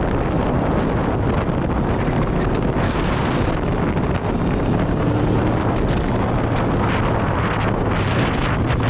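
Heavy wind noise on the microphone over the Aprilia Tuono V4 Factory's V4 engine running at speed, with the engine note faint beneath the wind.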